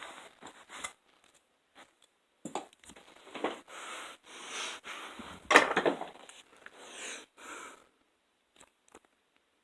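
Irregular bursts of rustling, crinkling handling noise with silent gaps between them, the loudest a little past halfway. No vacuum motor is running.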